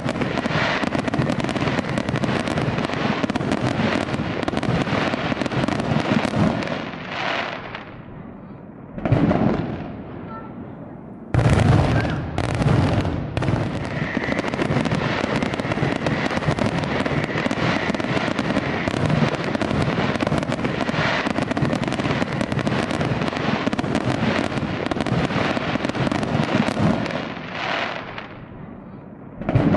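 Fireworks display: a dense, continuous barrage of aerial shell bursts and crackle. It thins out for a few seconds before the middle with one lone loud burst, comes back abruptly and loud, and fades near the end before a single loud bang.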